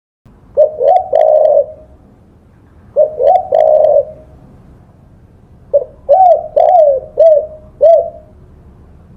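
Spotted dove (tekukur) cooing: three phrases of several short coos each, the first about half a second in, the second at three seconds, and a longer one of five coos from about six to eight seconds.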